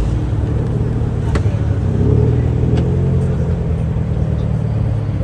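Car engines running at low revs, a deep steady rumble that swells slightly about two seconds in, with two sharp clicks.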